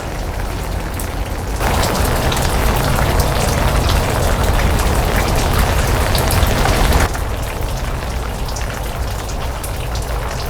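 Rain falling, with many small drops ticking. It gets louder from about a second and a half in, then drops back about seven seconds in.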